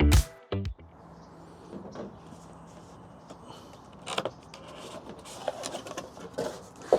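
Background music cuts off in the first second, followed by quiet handling of packaging: soft rustles and a few short knocks, the clearest about four seconds in and near the end.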